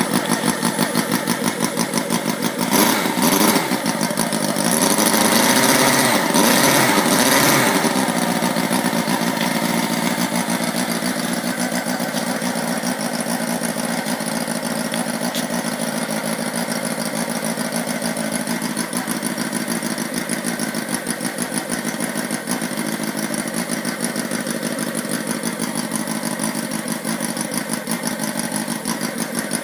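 Sterling Kits 32cc inline four-cylinder model engine running. Its pitch rises and falls in a short louder stretch a few seconds in, then it settles back to a steady idle.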